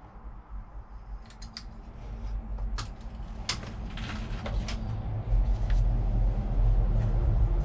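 Light clicks and knocks of objects being handled, over a low rumble that grows louder in the second half.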